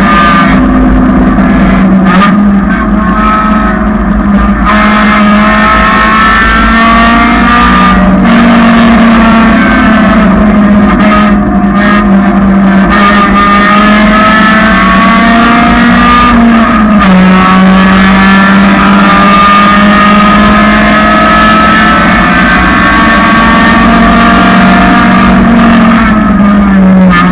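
1999 Honda Civic track car's engine running hard at high revs. Its pitch climbs through each gear and steps down at the shifts and under braking, with no break in the sound.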